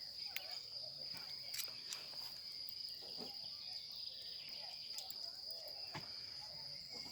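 Steady, high-pitched insect chirring, with scattered sharp clicks.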